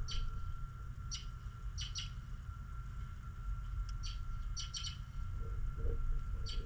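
Small birds chirping in short, separate calls, about eight across a few seconds, some in quick pairs, over a steady low rumble.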